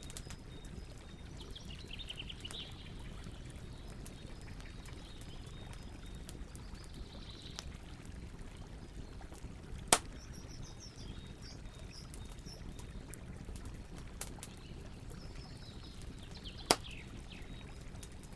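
Campfire crackling, with two sharp pops about ten seconds in and near the end, over the steady rush of a river. Birds call now and then, high and brief.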